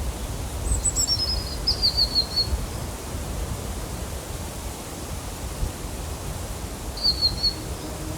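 Wind rumbling on the microphone, with a small bird calling: a quick run of high chirps falling in pitch about a second in, and a shorter run near the end.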